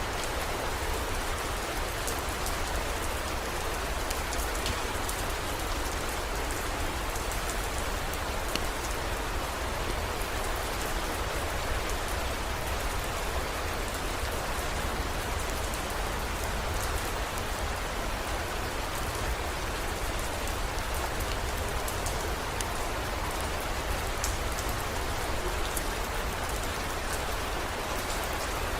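Heavy rain falling steadily, with faint sharp drop ticks over the hiss and a low, even rumble underneath.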